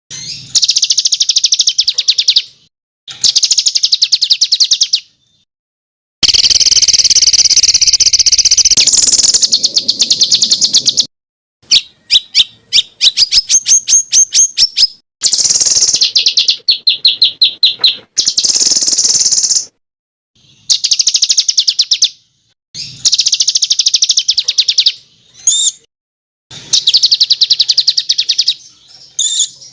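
A small songbird singing rapid, high trilled phrases, each a second to several seconds long, broken by short silent gaps. About halfway through comes a run of quick separate chirps.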